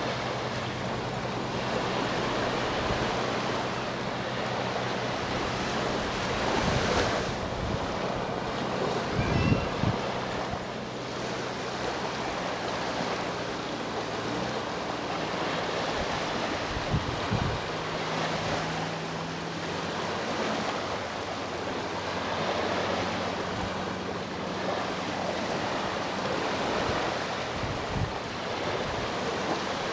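Sea waves washing onto the shore, a continuous surf rising and easing every few seconds. A low steady hum runs underneath for the first half and comes back later, the drone of a boat's engine, and wind knocks on the microphone a few times.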